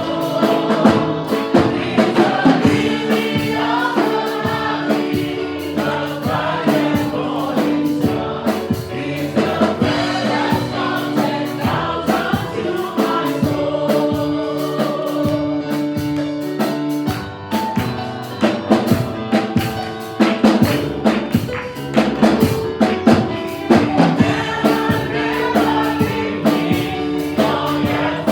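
Gospel choir singing a worship song with a band and drum kit keeping a steady beat.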